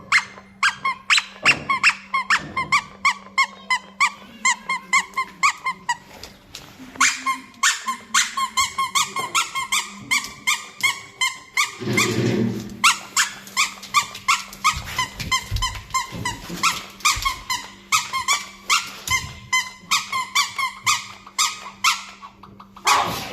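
Squeaky toy squeaked over and over as a dog chews it, about two to three short squeaks a second, with one longer, deeper sound about halfway through.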